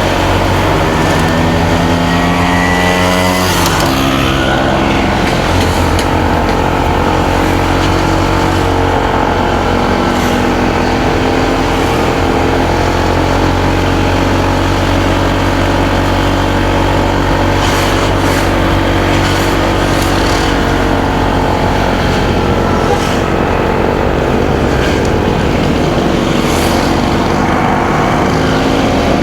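Motorcycle engine running under way with wind and road noise. Its note climbs for the first few seconds, drops sharply about four seconds in, then holds fairly steady.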